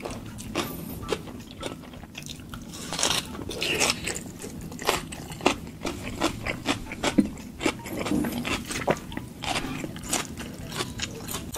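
Close-miked eating: a person biting and chewing food, with irregular crunches and mouth clicks.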